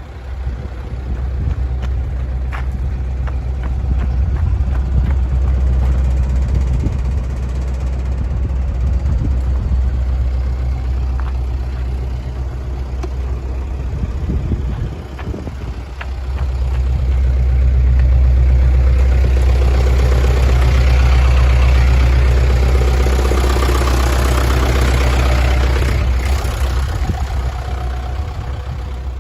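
Mitsubishi Canter's 4D35 four-cylinder diesel engine idling with a steady low rumble. It dips briefly about halfway through, then runs louder, with more clatter, for most of the rest.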